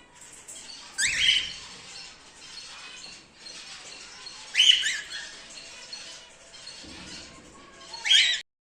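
Cockatiels squawking: three loud rising calls about three and a half seconds apart, over quieter chirping from the flock.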